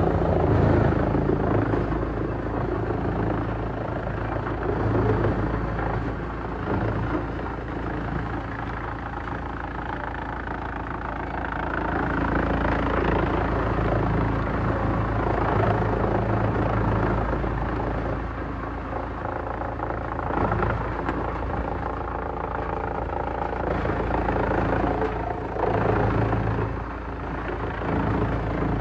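Heavy-duty industrial wood shredder running steadily with a deep drone. Its loudness swells and dips over several seconds as it works through wood, with brief cracks here and there.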